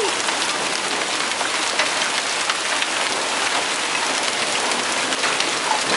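Hail and heavy rain pelting down: a dense, steady hiss scattered with many small, sharp ticks of hailstones striking.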